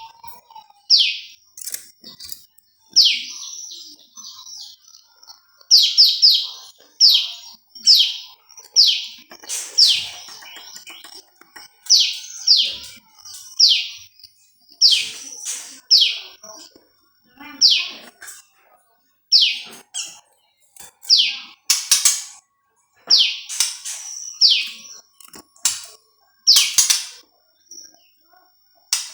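A prenjak lumut bird calling: loud, sharp, high notes, each sweeping quickly downward, repeated about once a second, often as quick doubles or triples.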